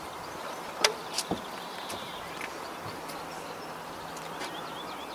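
Outdoor ambience: a steady background hiss with faint bird chirps, and a few sharp clicks or knocks about a second in.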